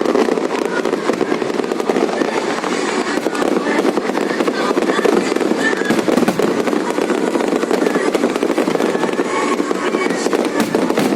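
Fireworks display going off in a dense, continuous crackle of many quick bursts, with no break.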